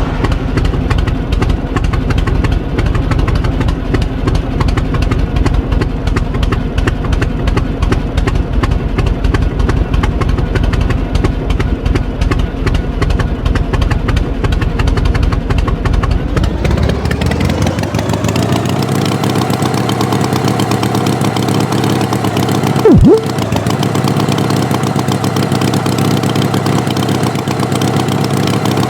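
Tractor engine running with fast, even chugging, then revving up about two-thirds of the way through and holding at the higher pitch. A brief loud tone cuts in about 23 seconds in.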